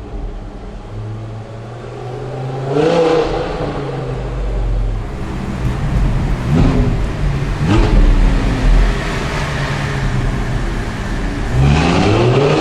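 Audi R8 V10 with an aftermarket exhaust idling, blipped three times in short revs that rise and fall, then accelerating hard near the end with a steadily rising engine pitch.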